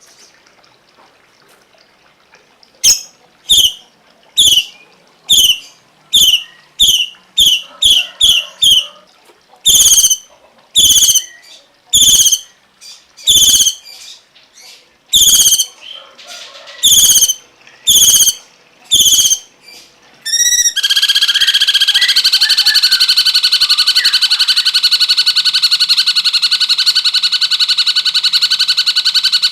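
Songbird calling: a run of sharp, downward-sweeping chirps, about one or two a second. About twenty seconds in they give way to a continuous, loud buzzing trill.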